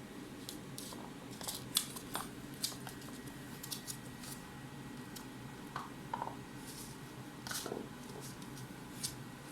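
Irregular sharp clicks and taps of a puppy playing with a carrot, loudest and most frequent about two seconds in and again near the eight-second mark.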